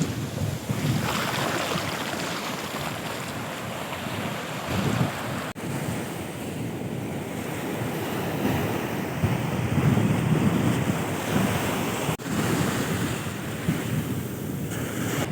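Sea surf and wind buffeting the microphone in gusty low rumbles, with the sound cutting out briefly twice.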